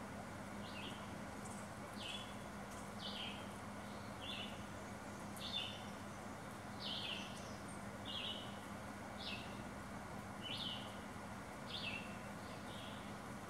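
A small bird repeating a short, falling call about once a second, eleven times, over a faint steady background hiss and hum.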